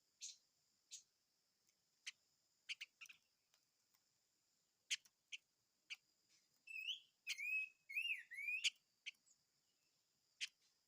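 A small songbird gives sharp, short chip calls at irregular intervals. About seven seconds in it breaks into a brief wavering, warbling phrase that slides up and down in pitch.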